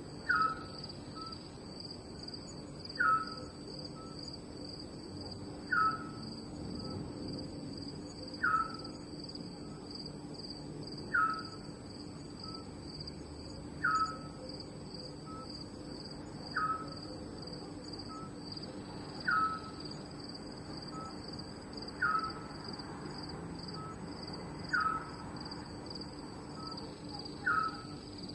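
Night ambience of crickets trilling steadily and high, with a short falling call that repeats evenly every two to three seconds, each followed by a brief softer note.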